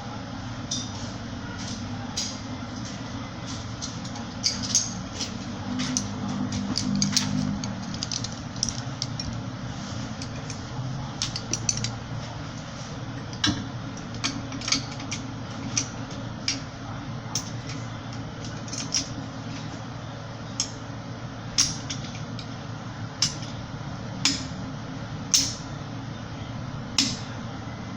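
Hand tools clinking and tapping on metal brake parts in a series of short sharp clicks. They are irregular at first, then come about one every second or so near the end, over a steady background noise.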